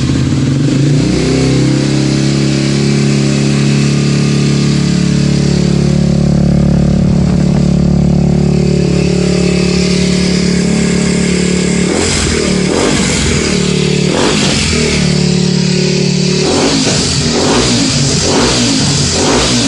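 Kawasaki D-Tracker motorcycle engine idling steadily just after an electric start, then revved with a series of short throttle blips over the last several seconds.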